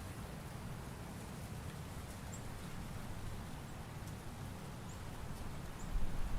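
Autumn forest ambience: a steady low rumble and hiss, with a few faint, short, high chirps and a low thump near the end.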